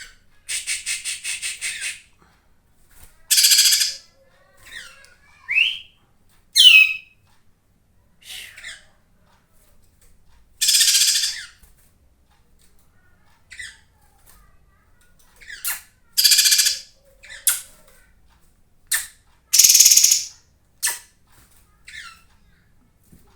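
Harsh, raspy bird calls in short bursts every second or two, with a couple of brief rising whistles between: a kapas tembak songbird's call used as a lure ('pancingan') to stir caged birds into song.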